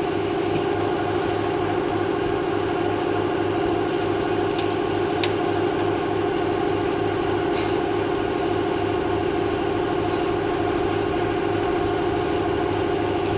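A machine running steadily, with a low throb repeating about three times a second and a few faint clicks.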